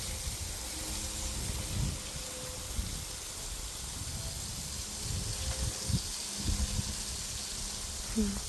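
Garden hose spraying water in a steady hiss, with irregular low rumbles underneath.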